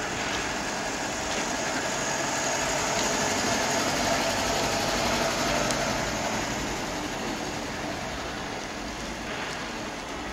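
Old Moskvich sedan driving slowly past with its engine running, loudest as it passes about midway and fading as it pulls away.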